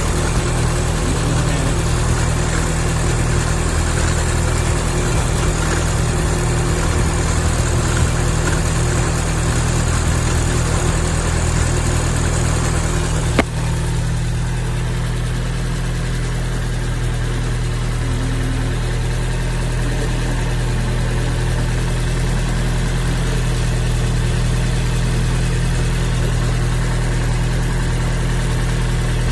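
2012 Scion tC's 2.5-litre four-cylinder engine idling steadily. A single sharp click comes about halfway through, and after it the higher hiss drops away.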